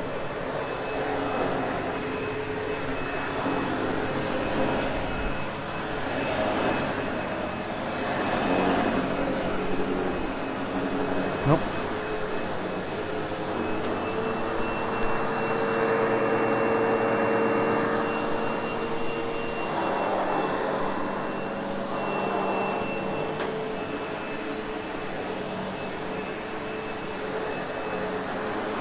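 Sebo X8 upright vacuum cleaner running on carpet, a steady motor whine with a thin high tone. The noise swells and fades every couple of seconds as it is pushed back and forth.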